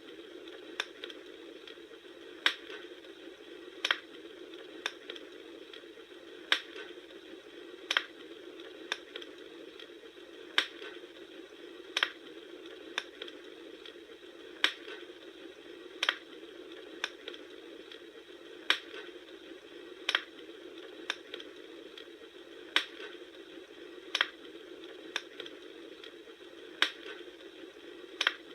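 Bonfire crackling: a steady hiss of burning wood with sharp pops about once every second or so.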